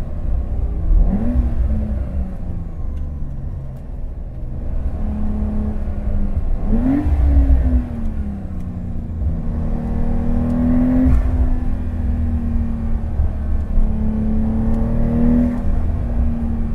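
A Porsche 911 Carrera T's twin-turbo flat-six engine is driving through a tunnel. Its revs climb sharply twice, about a second in and about seven seconds in, and fall away after each climb. The rest of the time it holds a steady cruising note.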